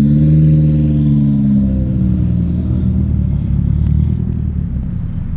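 A car engine coming down from a rev, its pitch falling slowly over the first two seconds or so, then settling into a low, uneven rumble.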